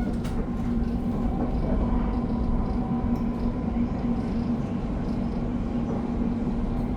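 Passenger train running, heard from inside the carriage: a steady rumble with a constant low hum.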